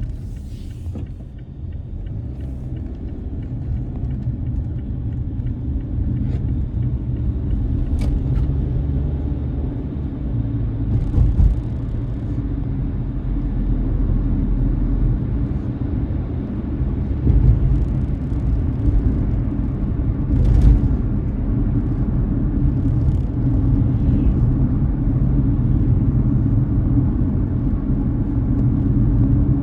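Car driving, picked up by a dashcam inside the cabin: a steady low rumble of road and engine noise that slowly builds, with a few brief knocks.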